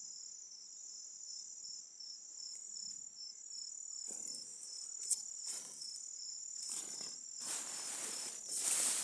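Insects trilling steadily in a continuous high-pitched drone. From about four seconds in there are rustling noises, loudest near the end.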